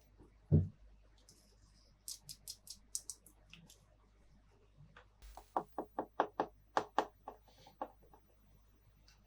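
Small plastic toy-playset pieces being handled. A dull thump comes about half a second in, then a run of light clicks, a brief rustle near the middle, and a quick series of plastic taps and clicks.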